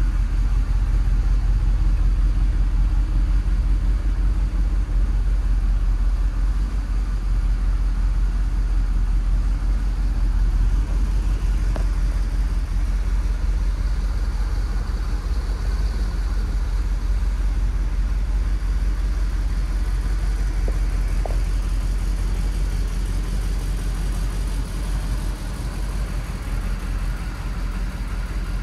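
A 1978 Chevrolet Corvette's 350 small-block V8 idling steadily, with a deep even hum, getting slightly quieter near the end.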